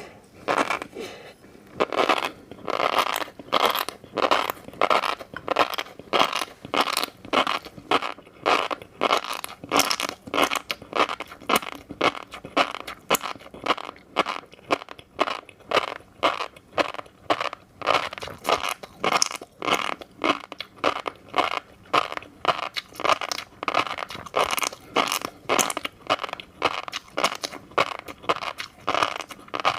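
Close-up chewing of fish roe: the beads crunch and pop in the mouth in a steady rhythm of about two chews a second.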